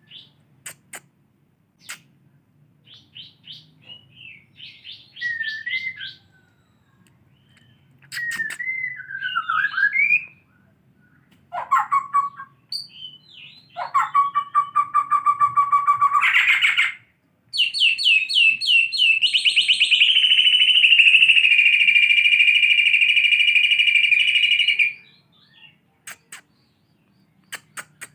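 White-rumped shama singing in canary style, the song it is being taught. Short chirps and whistled phrases lead into a rapid trill about halfway through, then a long, very fast rolling trill that lasts about seven seconds.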